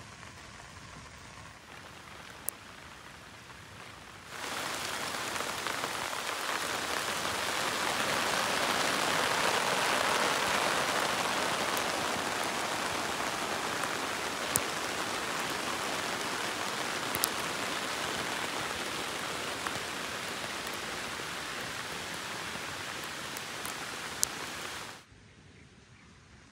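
Steady rain, its hiss jumping much louder about four seconds in, with a few sharp single drop hits. It drops abruptly back to a faint hiss near the end.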